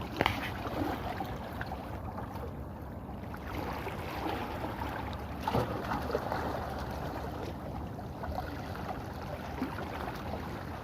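Steady rushing noise of a boat on the sea, water and wind together. There are a couple of brief knocks, one near the start and one about halfway through.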